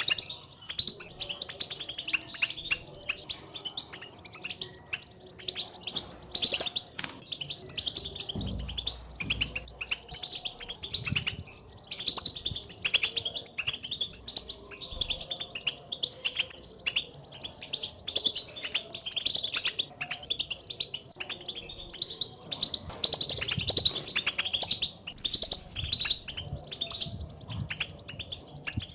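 European goldfinches giving their rapid twittering contact calls, many short high chirps tumbling over one another without pause. This is the call goldfinches use to call to each other and signal their presence, which stirs a caged goldfinch into song.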